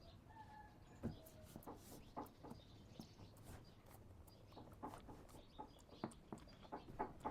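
Faint close-up sounds of a monkey grooming a cat: scattered small clicks and ticks, with a brief chirp-like animal call about half a second in.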